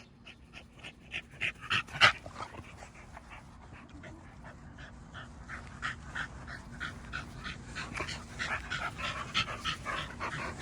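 An American bully dog panting hard at about four breaths a second, growing louder toward the end, with a sharper click about two seconds in. It is out of breath after a long run.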